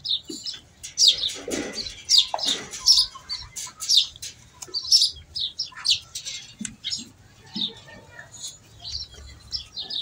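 Small birds chirping: short, high chirps repeated every half second or so.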